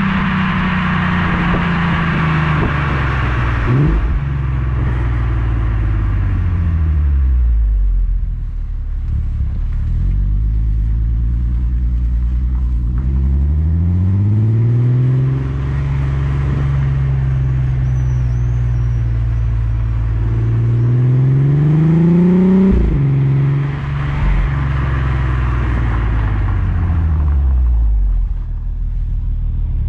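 Skoda Superb's 3.6 FSI VR6 engine through a Gestec cat-back exhaust, on the move. The note falls away as the car slows and then climbs as it accelerates. A quick gear change about three quarters of the way through drops the pitch, the revs fall off again, and they start to rise near the end.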